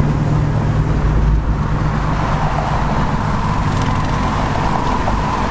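Muscle car engine and exhaust droning steadily while cruising on the road, with road and wind noise underneath.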